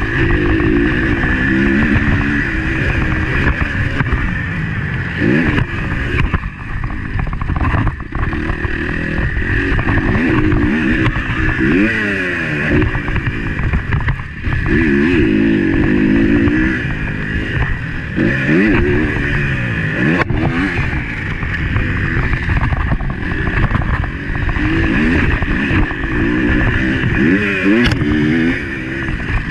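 Motocross bike engine heard on board, revving hard and rising and falling in pitch over and over as the rider accelerates and shifts through the gears, over a constant low rumble.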